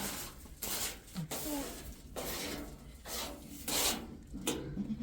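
Repeated rasping, rubbing strokes, each about half a second long, coming roughly once every half second to second.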